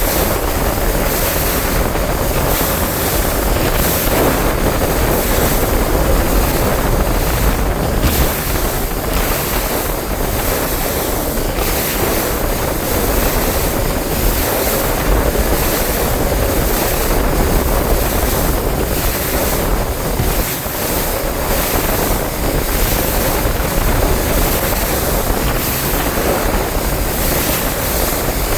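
Wind buffeting the microphone over water and waves washing against a bass boat, a loud steady rush with no speech.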